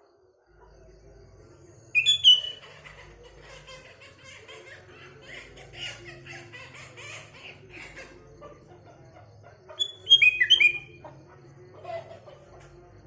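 Birdsong from a sooty-headed bulbul (kutilang) and other small birds: loud clusters of short, sharp downward-slurred notes about two seconds in and again around ten seconds, with softer continuous twittering between them.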